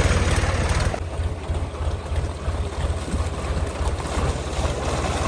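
Sonalika DI-35 tractor's diesel engine running with a steady low chugging beat; about a second in, the higher hiss over it falls away while the engine note carries on.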